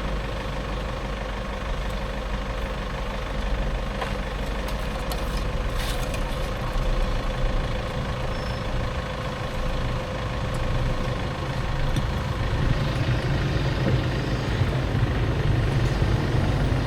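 A steady low engine or motor hum, growing louder in the last few seconds, with a few faint clicks partway through.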